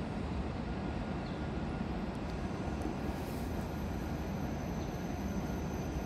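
Steady low rumble of an E7-series Hokuriku Shinkansen train approaching the station from a distance, with a faint high whine coming in about halfway.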